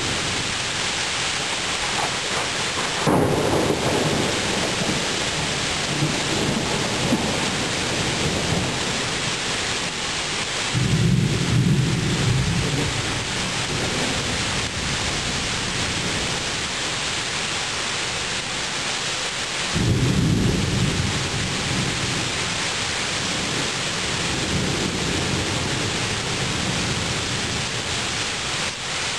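Steady rain falling through a thunderstorm, with three rolls of thunder: one a few seconds in with a sharper onset, one about eleven seconds in and one about twenty seconds in, each rumbling away over a few seconds.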